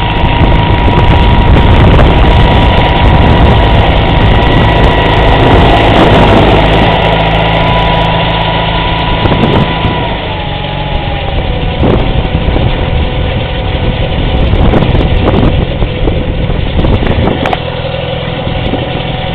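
Case 446 garden tractor's engine and front-mounted snowblower running, loud and steady, with a high whine that drops in pitch about ten seconds in.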